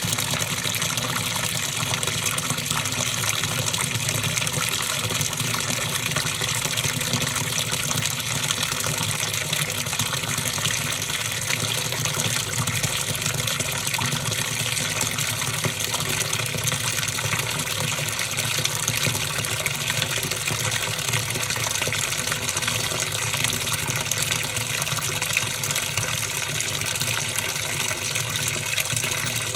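Top-loading washing machine with water running steadily into its tub.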